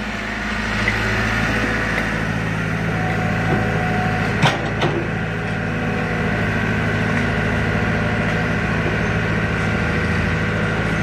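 Tractor diesel engine running steadily at low speed, with a sharp knock about four and a half seconds in.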